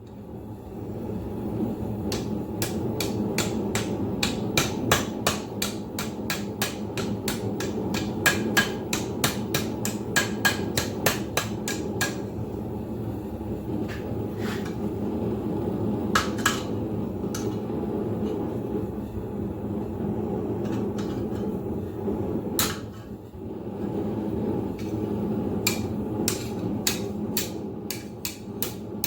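Blacksmith's hammer striking hot steel on an anvil: a fast run of blows about three a second, then scattered blows and another short flurry near the end. Underneath is the steady roar of a propane forge burner.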